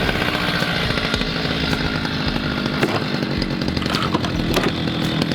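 Engine-driven saw running steadily as it cuts through the rusted steel body of a 1982 Mazda RX-7, with crackling and scraping from the metal.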